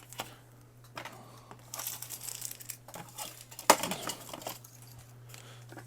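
Plastic being handled, crinkling and rustling in short bursts, with a few sharp clicks of small hard parts; the loudest click comes about two-thirds of the way through.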